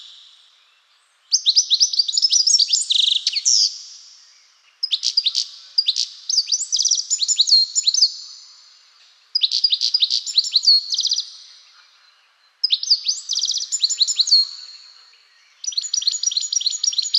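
European goldfinch singing: fast, high-pitched twittering phrases of rapid trills and chirps, five bursts of about two to three seconds each with short pauses between them.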